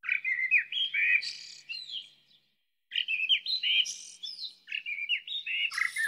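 Songbird singing: three phrases of quick chirping notes, separated by short pauses.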